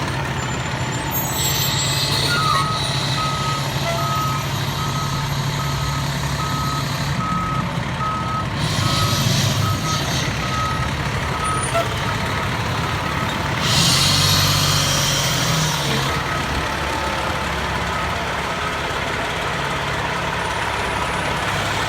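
Fire engine reversing: its backup alarm beeping steadily over the running diesel engine, with three short bursts of air hiss along the way.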